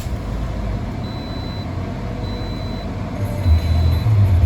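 A 2010 Toyota Corolla's four-cylinder engine idling just after start-up, growing louder about three seconds in. A high warning chime beeps on and off about once a second.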